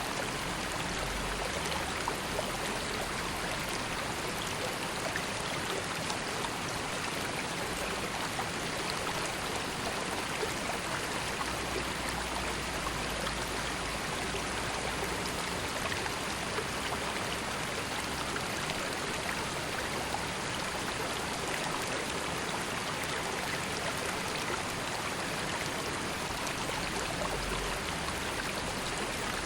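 River water flowing steadily: a continuous, even rush with faint small splashes scattered through it.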